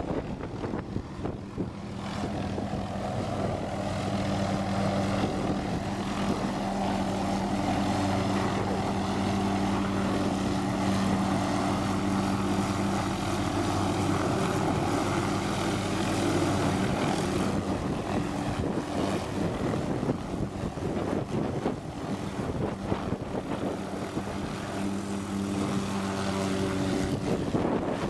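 A helicopter running in flight: a steady engine and rotor drone that swells and dips slightly.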